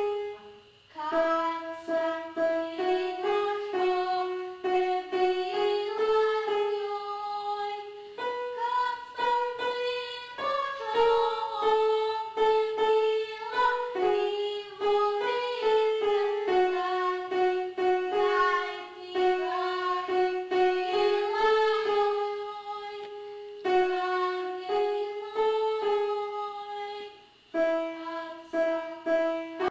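A slow melody played on a keyboard instrument: single sustained notes that step from one to the next, with no singing.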